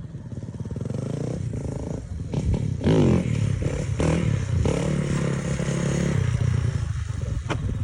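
Dirt bike engine running, revved about three seconds in, its pitch then falling back before it runs on steadily.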